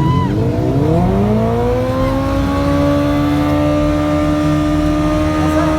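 A car engine revs up in a smooth climb over the first couple of seconds, then is held steady at high revs, with a low rumble underneath.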